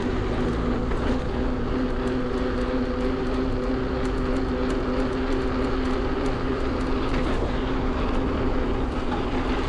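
Electric bike riding along a road: wind rushes over the microphone with a low rumble, over the steady hum of the Bafang BBSHD mid-drive motor, which holds a constant pitch and fades a little past the halfway point.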